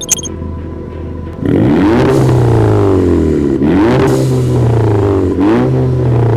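Golf Mk6 GTI's 2.0-litre turbocharged four-cylinder revved three times through an Armytrix turbo-back exhaust, loud, each rev rising quickly and falling back more slowly. It comes in about a second and a half in, after a short click.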